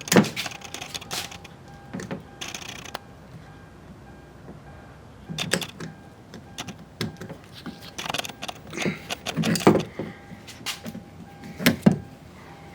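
Scattered clicks, knocks and light rattles of door-handle parts being handled and fitted in a car door, most frequent about eight to ten seconds in.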